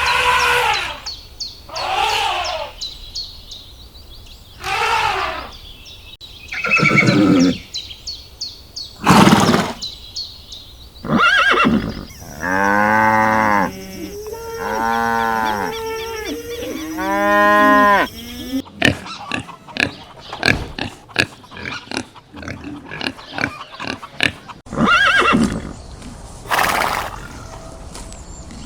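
Farm animals calling in turn. First come short bleating calls about every two seconds, then three long pitched calls, then a stretch of quick clicks and grunts, with two more calls near the end.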